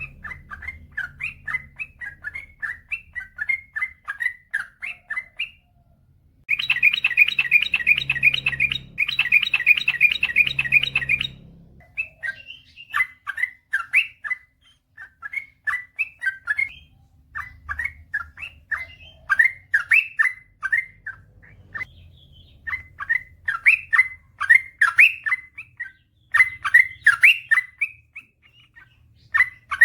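Yellow-vented bulbul (trucukan) singing long strings of quick, bubbly notes. A louder run of rapid, rattling notes comes about seven seconds in and lasts about four seconds. This is the long, fluent 'ropel' song used as a masteran to get other bulbuls singing.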